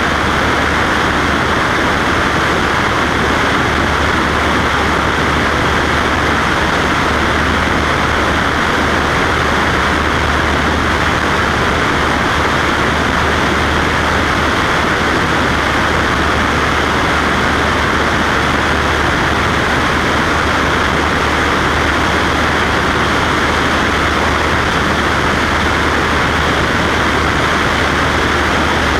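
Cessna Skywagon single-engine piston plane in flight, its engine and propeller making a loud, unchanging drone.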